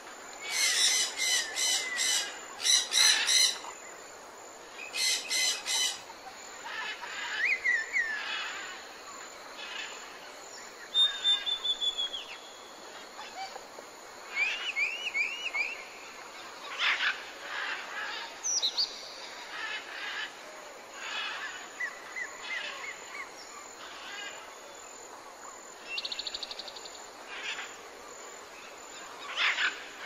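Several birds calling in a tropical forest: loud, rapid chattering bursts in the first six seconds, then scattered whistles, short rising and falling notes and a brief trill, over a steady background hiss.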